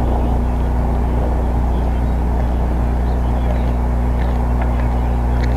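Steady low mechanical hum with a few fixed tones, holding at an even level.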